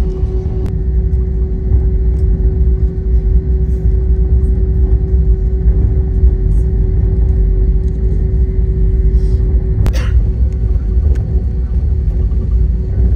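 Airbus A320 cabin noise during taxi: a steady low rumble with a constant hum, and a sharp click about ten seconds in.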